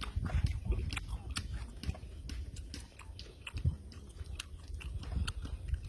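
A man chewing and biting a mouthful of raw fish with papaya salad close to the microphone, with many small wet clicks and crunches.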